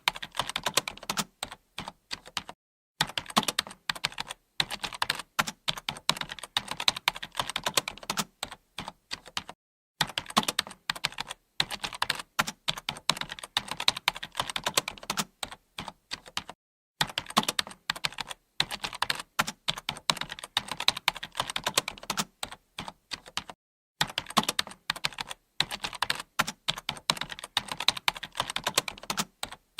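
Computer keyboard being typed on in quick, steady runs of keystrokes, with short pauses about every seven seconds.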